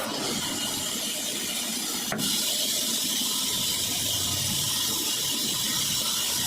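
Sawmill saw running with a steady, hiss-like noise. There is a sharp click about two seconds in, after which the hiss turns brighter.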